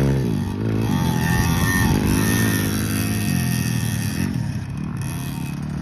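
KTM motocross bike engines running on a dirt track, their pitch rising and falling as the riders throttle on and off; a close bike's note drops away right at the start.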